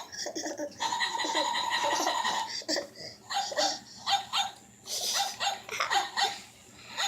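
Battery-powered toy puppy barking in a held call and then a run of short barks, with laughter mixed in.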